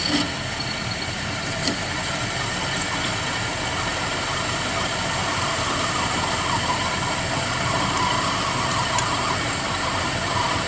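A machine running steadily, a dense even noise with a faint higher whine coming in around the middle.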